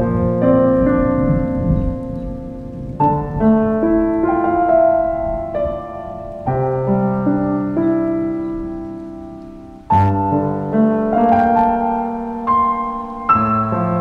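Background piano music: chords struck every second or two and left to ring and fade.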